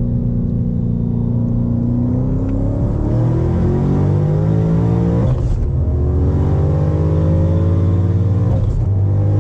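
Twin-turbo 426 Hemi of a manual Dodge Challenger Hellcat accelerating through the gears. The engine note climbs steadily, drops at an upshift about five seconds in, and climbs again to a second shift near the end. It is pulling normally again, out of limp mode.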